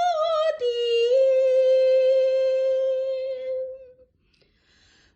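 Unaccompanied solo voice singing Cantonese opera, ending a phrase on one long steady note held for about three seconds, then a short silence near the end.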